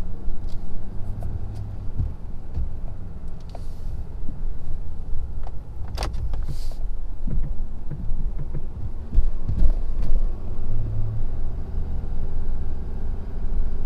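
Ford F-250's Power Stroke diesel engine running under load while the truck plows through deep, wet, heavy snow: a steady low rumble, with scattered clicks and one sharp knock about midway.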